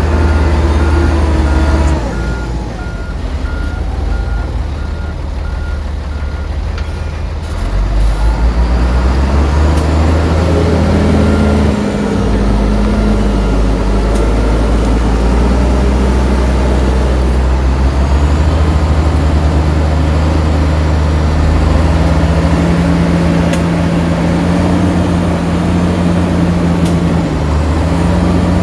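Heavy diesel engines of earthmoving machinery at work loading sand, the engine speed shifting up and down several times. A reversing alarm beeps steadily for the first several seconds, then stops.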